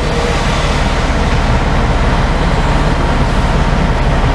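Semi truck's diesel engine idling with a steady, evenly pulsing low rumble.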